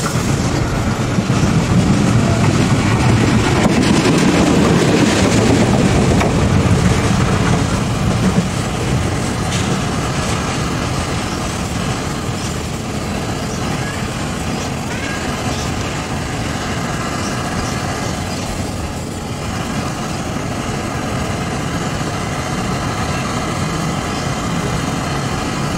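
Trains passing on rails: a heavy rumble of wheels and running gear, loudest in the first several seconds, then a steadier, quieter running sound as a diesel-electric locomotive approaches.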